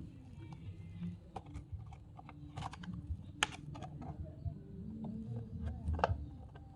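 Irregular light clicks and taps, one or two a second, over a steady low hum.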